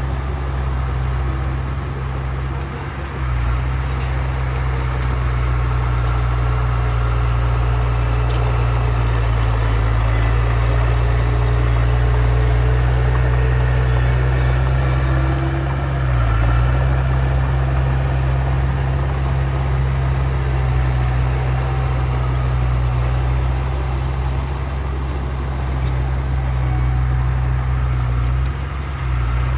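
Heavy diesel engine of earthmoving machinery running under steady load, a deep drone that briefly dips and recovers about three seconds in, midway and near the end.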